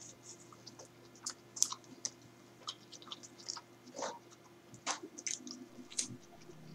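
Close-up mouth sounds of a person eating a burger: quiet, irregular wet smacks and clicks of chewing, with another bite taken near the end.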